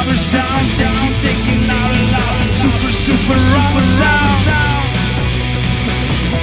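Live rock music blended with electronic music, played loud, with a steady beat and a lead line that slides up and down in pitch.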